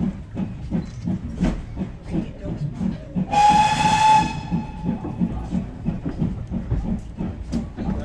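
Steam locomotive whistle blown once for about a second, a loud shrill tone with hiss, over the steady rhythmic beat of the steam train running.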